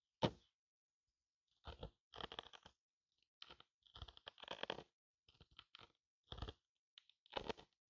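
Hard-candy lollipop pieces crunching and crackling in short, irregular bursts as they are crushed and handled, with the sharpest crunch just after the start.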